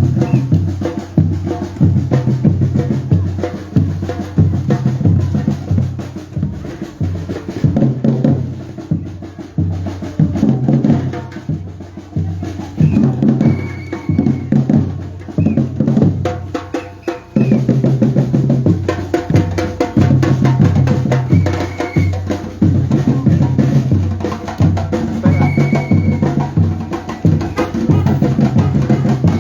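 Batucada percussion ensemble drumming a driving rhythm on bass drums and snares, easing off briefly a little past halfway before coming back in full.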